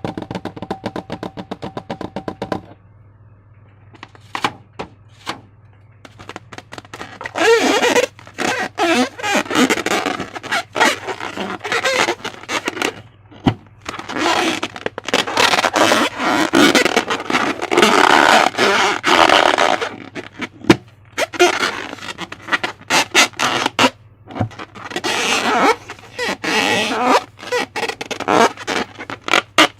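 Slime being squished and worked by hand: irregular bursts of wet crackling and popping with short pauses, over a steady low hum.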